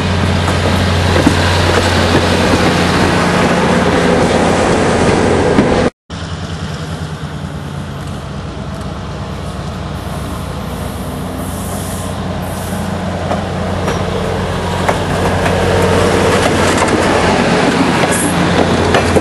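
Diesel passenger train with F-unit cab locomotives passing close by, engines running with a steady low drone over the rumble of wheels on rail. After a sudden cut about six seconds in, the train is heard approaching from a distance and grows steadily louder until the locomotive passes close again near the end.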